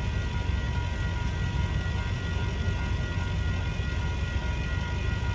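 Metra commuter train at a grade crossing: a steady low rumble from the train, with a few steady high tones above it.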